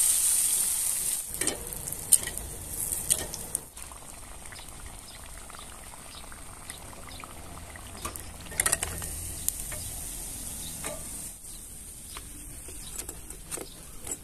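Atta-and-suji batter fritter deep-frying in hot mustard oil in an iron kadai. A loud sizzle as the batter meets the oil settles within the first few seconds into a quieter, steady crackle, with occasional sharp clicks.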